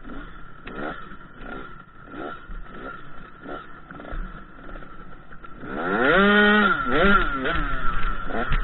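KTM 85 SX two-stroke dirt bike engine revving in a string of short throttle blips. About six seconds in it gets much louder, with one rev that climbs high, holds for under a second and drops, then more short blips.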